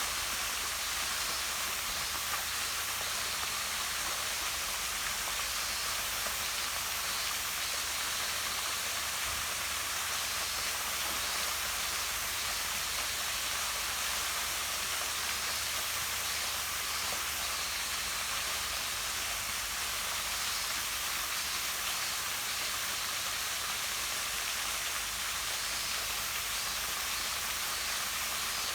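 Small waterfall pouring down a rock face into a pond: a steady, even rush of splashing water, strongest in the high, hissing range.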